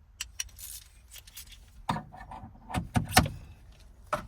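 Metal hand tools and shifter parts clinking and knocking as they are handled: light scattered clicks, then a cluster of sharper knocks from about two seconds in.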